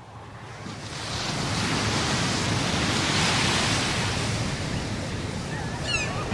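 Ocean surf washing steadily, fading in from silence over the first second or so.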